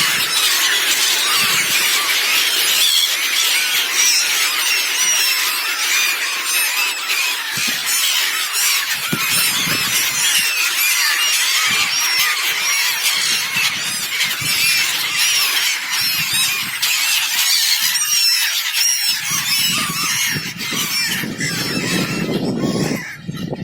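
A large flock of seabirds calling together, a dense chatter of many shrill overlapping calls. Near the end the calls thin out and a low rushing noise comes in.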